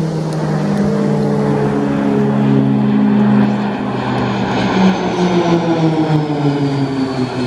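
Propeller aircraft flying past with its engine running steadily. The engine note drops slowly in pitch from about halfway through as it passes.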